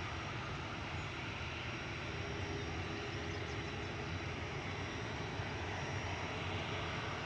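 Jet airliner engines running at a distance, a steady, even noise with faint steady tones, as an aircraft starts its takeoff.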